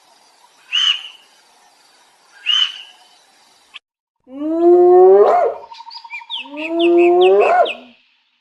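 Animal calls: two short high calls, then after a break two long calls that rise in pitch, with quick high chirps above them.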